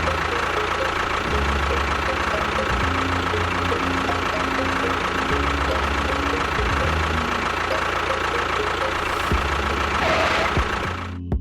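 A motor running steadily with a low, uneven pulsing and a constant whine, cutting off suddenly just before the end.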